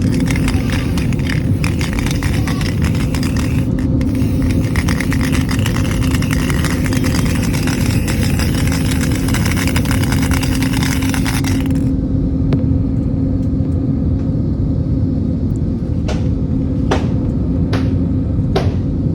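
A steady low hum with a held tone runs throughout. Over it, a dense hiss lasts about twelve seconds and cuts off suddenly, and a few sharp clicks follow near the end.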